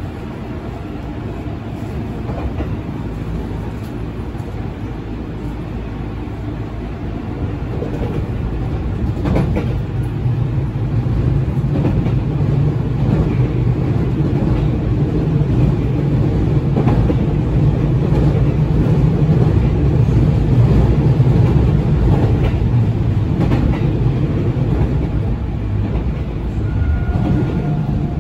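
Running noise inside a JR West 207 series commuter train car: wheels rumbling on the rails with occasional rail-joint clacks, growing louder about a third of the way in and easing slightly near the end.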